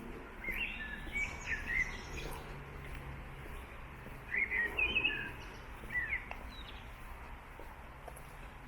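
A songbird singing two short phrases of quick, varied notes, one near the start and one about halfway through, over a steady low background rumble.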